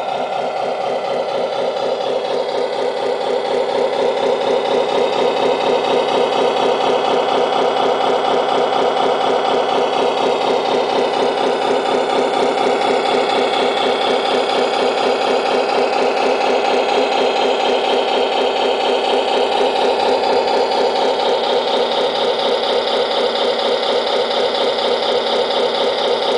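Tamiya 1/14-scale Scania R620 radio-controlled truck running, a steady engine-like drone with a fast, even pulsing rattle and little bass. It swells over the first few seconds, then holds steady.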